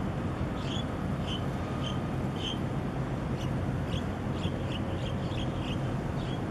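A bird calling in about a dozen short, high chirps that come faster in the second half, over a steady low rumble of wind and harbour noise.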